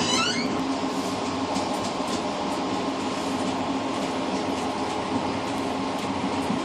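Passenger train running, heard from inside the vestibule at the rear of the train: a steady rumble with a constant hum and faint clicks from the rails. A brief high squeaking comes right at the start.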